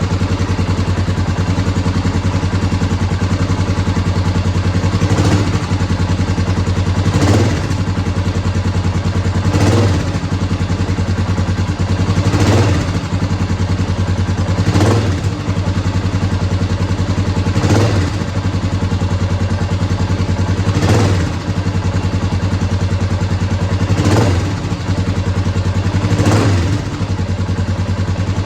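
Honda XR650R single-cylinder four-stroke engine running through a DG V2 exhaust, idling steadily with nine short throttle blips about every two and a half seconds.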